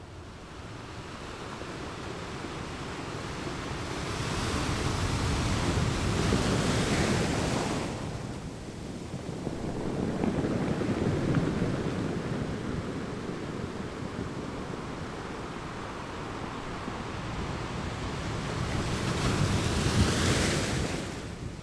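Ocean waves washing onto a shore: a continuous rush of surf that swells and recedes, with a few waves breaking and hissing up the beach, the last and loudest near the end.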